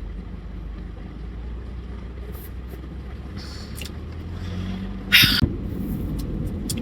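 Car running, a steady low rumble heard from inside the cabin, with a brief loud noise about five seconds in.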